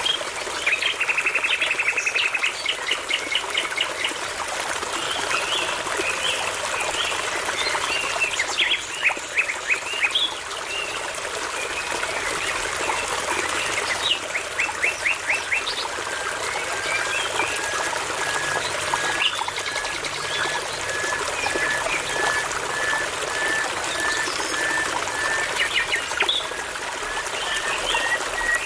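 Songbirds singing in varied phrases of fast trills and quick repeated notes over a steady babbling brook. In the second half one bird gives a long, even series of short whistled notes, about two a second, creeping slowly up in pitch.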